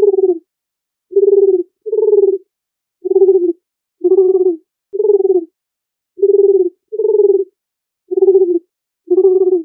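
A dove cooing: a string of about ten short, low coo notes, each about half a second long, coming roughly once a second, some closer together in pairs.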